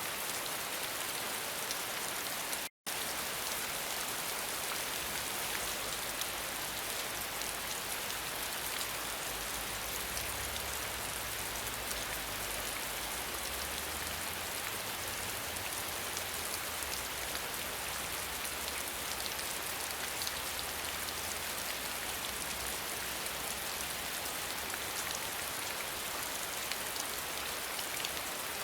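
Steady rain falling on a surface: a dense, even patter of drops. The sound cuts out completely for an instant about three seconds in.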